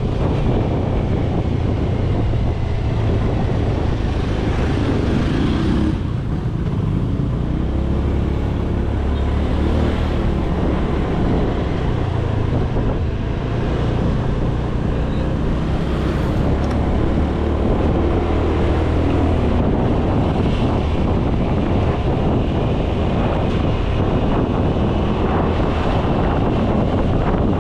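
Motorcycle engine running under way, its pitch rising and falling with the ride, with wind buffeting the microphone.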